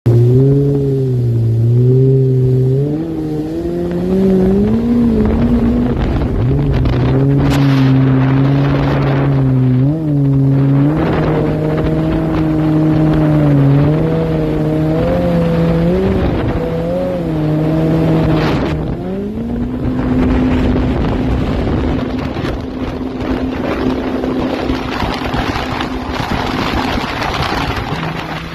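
Jet ski engine running under changing throttle, its pitch wavering up and down, then revving up about two-thirds of the way through to a steady higher pitch as rushing water spray and wind grow louder near the end.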